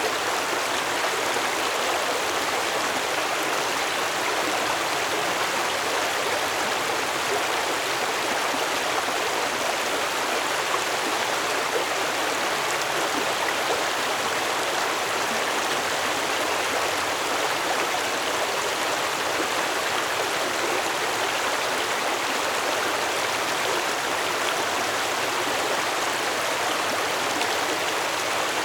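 Stream water flowing steadily, an even rushing sound without pauses or distinct splashes.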